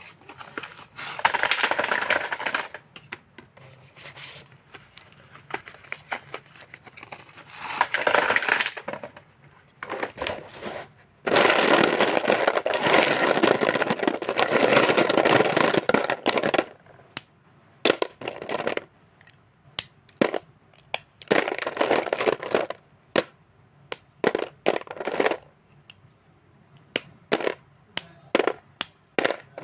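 Slate pencils being snapped and crushed, with crunchy crumbling in several stretches. The longest stretch, in the middle, lasts about five seconds, and a run of separate sharp snaps follows in the second half.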